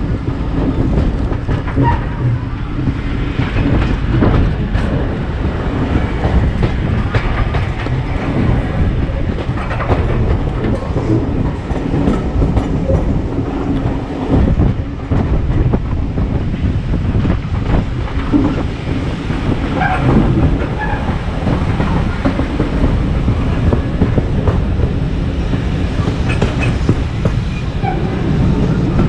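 Heritage railway train running along the line: a steady low rumble with the wheels clicking over the rail joints.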